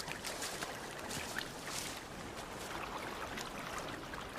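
Shallow seawater lapping and trickling, with small splashes.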